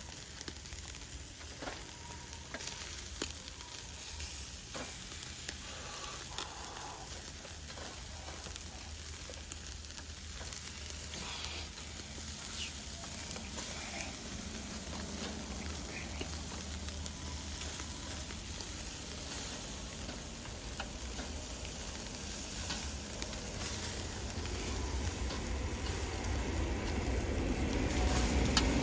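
Food sizzling in a pan over a fire, a steady hiss with scattered small pops and crackles, slowly growing louder toward the end.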